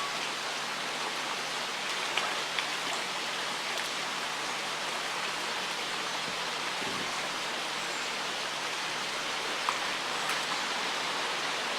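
Steady rushing of flowing river water, with a few faint clicks about two seconds in and again near the end.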